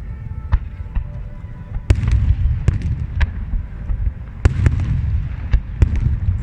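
Fireworks display: sharp bangs of shells bursting, about eight in quick, irregular succession, over a continuous low rumble of the barrage. The rumble swells about two seconds in and again near four and a half seconds in.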